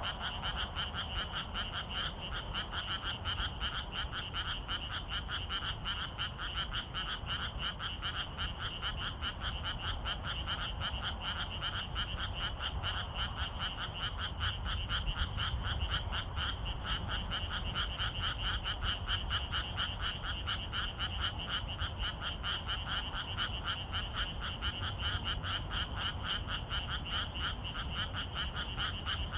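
A dense evening chorus of many frogs calling at once, a steady mass of rapid, overlapping croaks, with a low rumble underneath.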